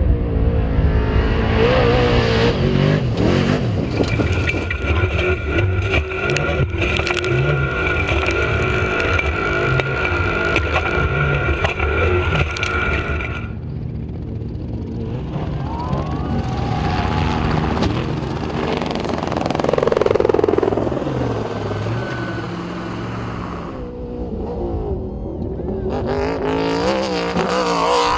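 Off-road trophy truck engine running hard at racing speed, its pitch rising and falling as it revs. A steady high whine sounds over it for several seconds in the first half.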